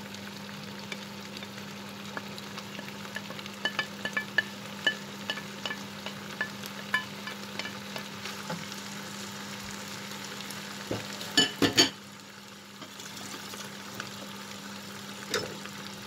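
Curry paste and minced pork sizzling in a nonstick frying pan while a wooden spatula scrapes the pork off a plate and stirs it. Light clicks come between about four and seven seconds in, and a cluster of sharp knocks near twelve seconds.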